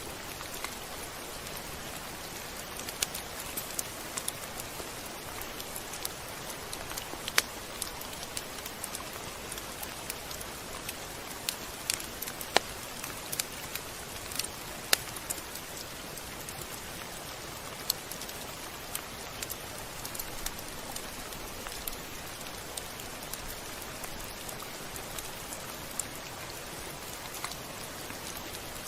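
Steady rain hiss with irregular sharp ticks of single drops striking a surface.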